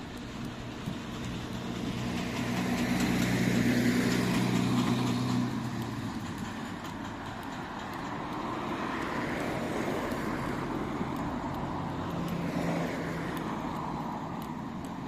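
Street traffic: a motor vehicle passes, its engine and tyre noise swelling to a peak about four seconds in and then fading, with another vehicle's engine heard again near the end.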